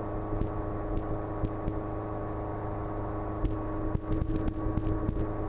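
Hughes/Schweizer 300C helicopter's piston engine and rotors droning steadily in flight, heard from inside the cabin.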